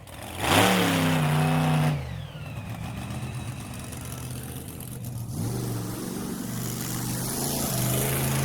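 Car engine sound effect revving up about half a second in and holding a steady note, falling away at two seconds, then revving up again a little after five seconds and running steadily.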